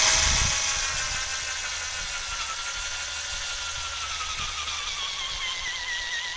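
Electric drill boring a tap hole into a silver maple trunk: a continuous motor whine that slowly sags in pitch and wavers under load.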